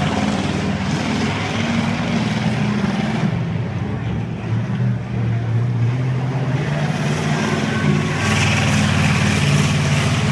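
Racing car engines running around a dirt track, their pitch rising and falling as they accelerate and ease off, getting brighter near the end.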